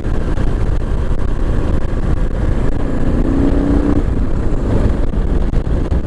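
Kawasaki KLR 650's single-cylinder engine pulling under throttle while the bike is ridden, over a dense, steady low rumble, with a brief engine tone rising out of it about three seconds in. The throttle picks up with no lag or hesitation, the carburetor running cleanly on its KLX needle kit.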